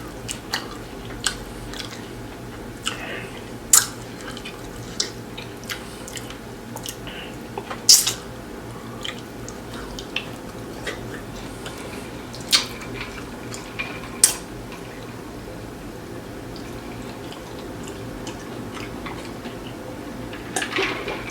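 A person eating a taco close to the microphone: chewing, with scattered wet smacks and clicks, the loudest about 4 and 8 seconds in. The clicks thin out in the second half over a steady low background hum.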